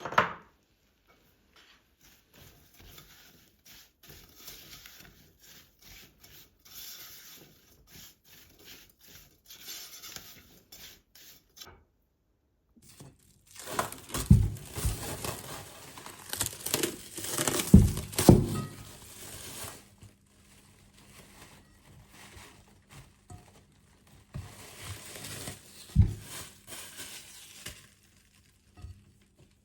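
Household handling sounds: soft rustling and light taps, then after a short break louder crinkling and rubbing with a few sharp knocks, the loudest a little after the middle. A faint steady hum comes in about two-thirds of the way through.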